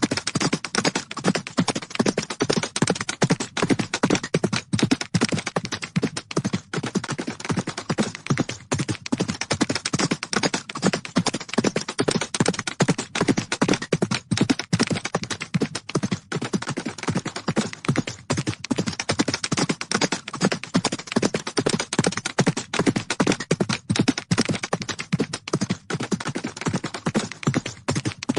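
Hooves of galloping horses: a dense, unbroken run of rapid thuds on the ground.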